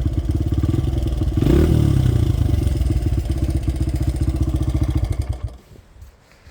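Dirt bike engine idling with a steady pulse, blipped up briefly about a second and a half in, then shut off about five and a half seconds in.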